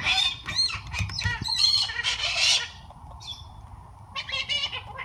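Pet parrots squawking and chattering in loud, high-pitched bursts, a lull about three seconds in, then another short burst of calls near the end.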